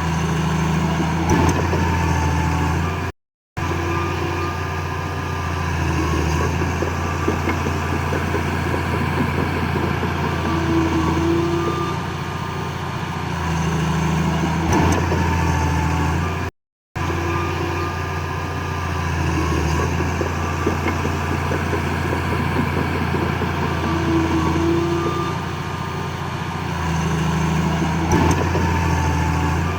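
Heavy diesel engine of earthmoving machinery running steadily with a low drone. The same stretch of sound repeats about every thirteen seconds, with a short silent gap each time it starts over.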